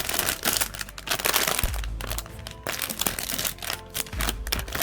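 Plastic blind-box packaging crinkling and crackling loudly as it is handled and opened, over background music with a pulsing bass.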